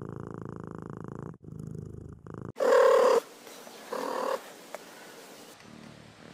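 Domestic cat purring as a fast, even rattle, broken once briefly, then a loud meow about two and a half seconds in and a shorter, quieter call about four seconds in.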